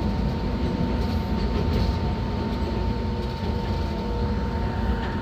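Enoshima Electric Railway train running, heard from inside the car: a steady low rumble of wheels on the rails with a thin, even whine held throughout.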